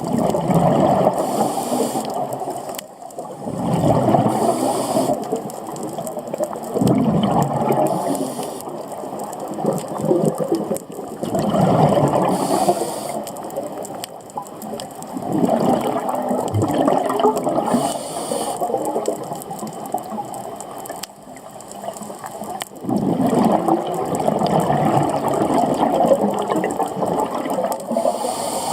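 Scuba diver breathing through a regulator underwater: a bubbling rush of exhaled bubbles every few seconds, with a brief hiss of inhalation in between.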